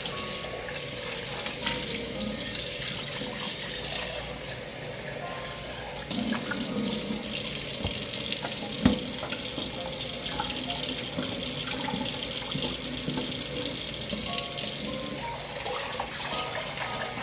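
Kitchen tap running into a sink as dishes are washed, the flow getting a little louder about six seconds in. A single sharp clink comes near nine seconds.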